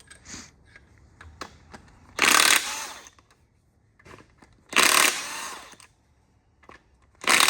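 Impact wrench zipping off the main bearing cap bolts of an LS1 V8 block in three short bursts, about two and a half seconds apart, with light metal clicks between them.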